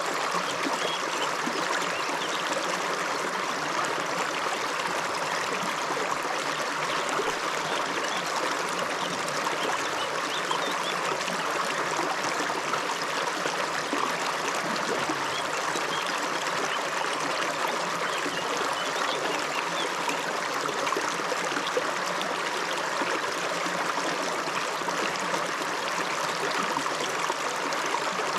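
Upland river flowing steadily over stones, a constant rushing and trickling with no break or change.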